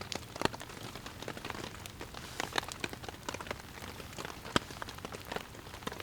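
Rain falling steadily, with many irregular sharp taps and drips of drops landing close by.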